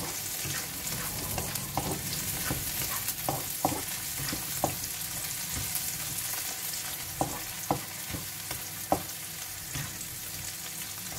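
Garlic, onion and ginger sizzling in oil in a nonstick frying pan, with a steady hiss, while a spatula stirs them and taps against the pan at irregular moments.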